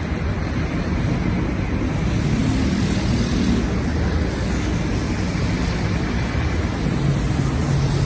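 Steady city street ambience dominated by traffic noise, with faint engine hum rising and falling as vehicles pass.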